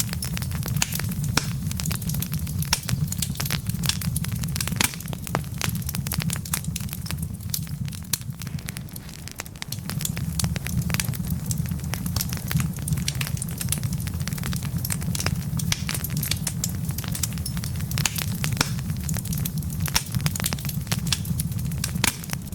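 Wood logs burning in a fireplace: frequent irregular sharp crackles and pops over a steady low rumble of the flames, the rumble dipping for a moment about eight seconds in.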